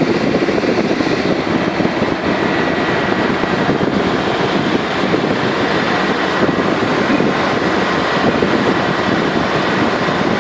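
Steady, loud mechanical noise with a faint steady high whine.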